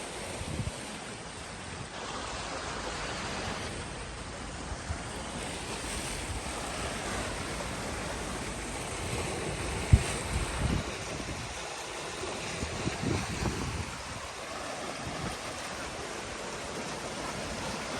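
Sea waves washing against the shore in a steady rush, with wind buffeting the microphone in low thumps, the sharpest about ten seconds in.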